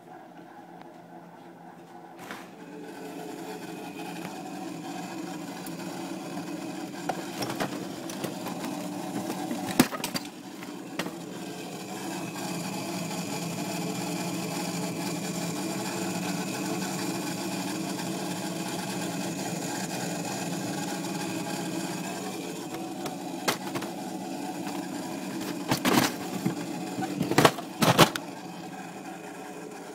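Refrigerator making a steady, several-pitched humming drone that builds up about two seconds in and eases somewhat near the end, with sharp clicks or knocks partway through and a few more close together near the end. This noise comes back soon after the temperature is turned down.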